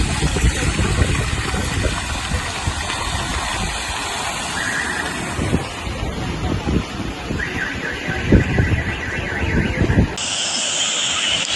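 Wind buffeting the microphone over a steady rush of noise, with a pulsing high tone sounding briefly near the middle and again for a few seconds. About ten seconds in it cuts abruptly to a steady hiss.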